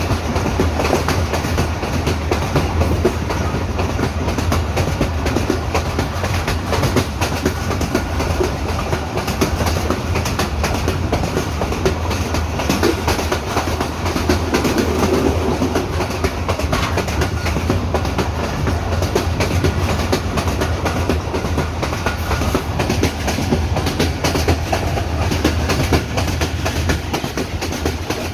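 Hazara Express passenger train running on the track: a steady rumble with a constant fine clatter of wheels over the rails.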